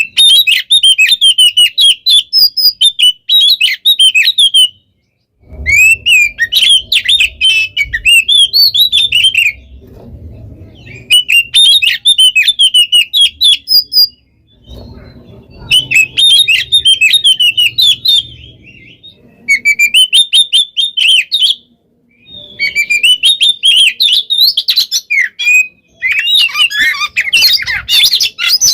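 Oriental magpie-robin (kacer) singing loud, rapid phrases of varied high whistles, trills and chattering notes. About seven bursts of a few seconds each are divided by brief pauses.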